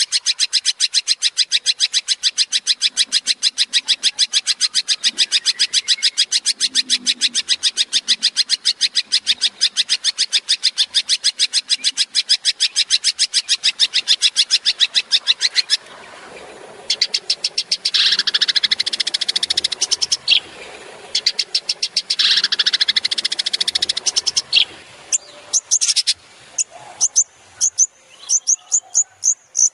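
Long-tailed shrike (cendet) singing a fast, even run of sharp, high repeated notes for about fifteen seconds: the rapid 'tembakan' (shot) phrase. Two bursts of harsh chattering follow, then scattered single sharp notes near the end.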